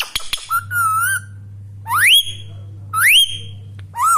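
Indian ringneck parrot whistling: a few clicks, then a wavering call, then two whistles about a second apart that rise steeply in pitch and hold, and another wavering call near the end.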